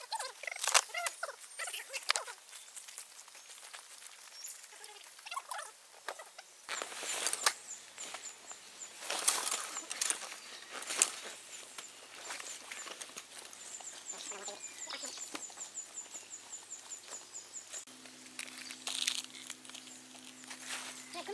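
Wood campfire crackling, with irregular sharp pops and a few louder cracks of burning wood.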